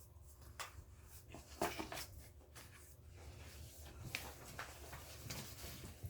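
Quiet meeting-room tone with a steady low hum, broken by a few short, scattered clicks and rustles of small handling noises.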